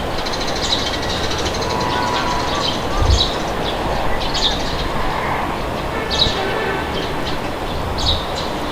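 Steady wind blowing, with small birds chirping in short, high calls scattered throughout and a brief low thump about three seconds in.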